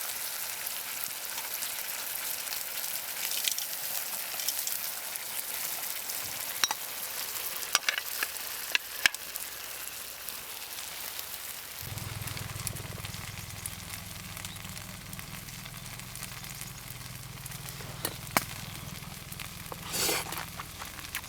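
Food sizzling in a hot sandwich maker over a campfire, a steady hiss with scattered pops. A low steady hum joins about twelve seconds in.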